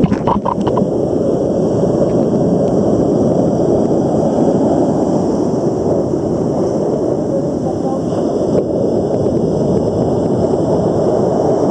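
Steady rumbling roar of heavy ocean surf, mixed with wind on the microphone.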